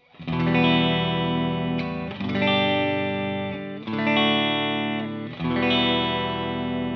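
Electric guitar, a Fender Telecaster on its middle pickup position played through a Behringer Chorus Orchestra chorus pedal into a Fender Blues Junior tube amp: four strummed chords, each left to ring for about a second and a half, with a gentle wavering shimmer.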